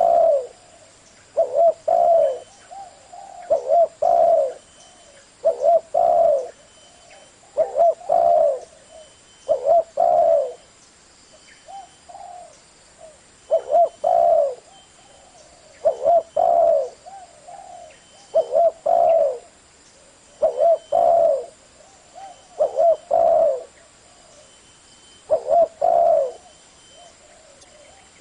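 Spotted dove cooing: the same short, low coo phrase repeating about every two seconds.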